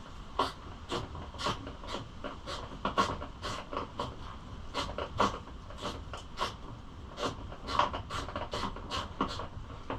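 Hand-tool work: a steady run of short clicks and scrapes, about two a second.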